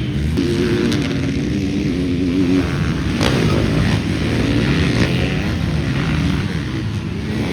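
Dirt bike engines racing on a motocross track, revving hard, their pitch rising, holding and falling as the bikes accelerate and back off.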